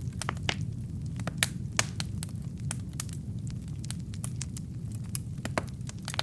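Wood fire in a fireplace crackling: irregular sharp pops and snaps from the burning logs, several a second, over a steady low rumble of the flames.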